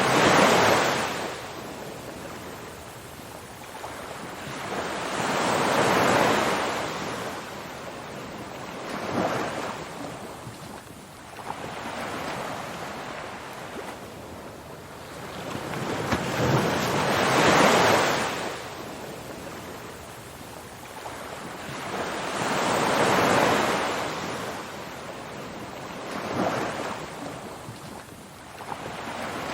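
Ocean waves breaking on a shore, a wash of surf that swells and fades every few seconds, with larger waves about every five to six seconds and smaller ones between.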